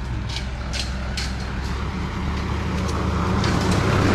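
A motor vehicle's engine running as it passes on the road: a steady low drone that grows louder toward the end, as the vehicle comes closer.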